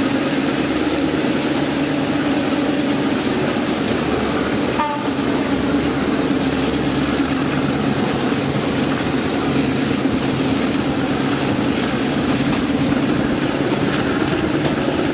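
Passenger train running, a loud, steady noise of the moving train that dips briefly about five seconds in.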